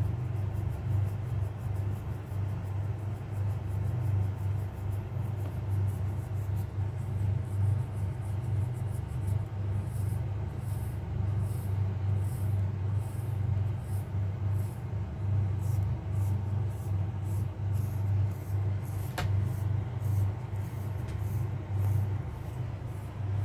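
Rhythmic scratching through a cat's fur. The strokes come rapidly at first and then slow to about two a second, over a steady low rumble. There is a single sharp click about nineteen seconds in.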